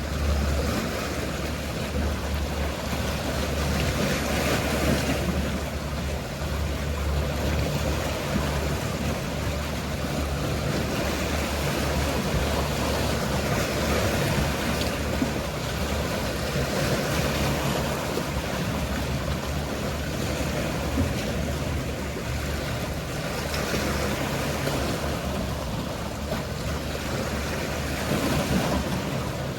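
Sea waves washing in and easing off every few seconds over the steady low hum of a boat engine.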